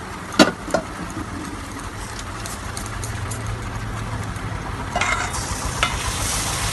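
Egg and coconut paste frying in oil in a hot kadai, sizzling steadily, with two sharp metal clinks from the steel mixing bowl in the first second. About five seconds in, the sizzle grows louder and hissier as rinse water from the bowl is poured into the pan.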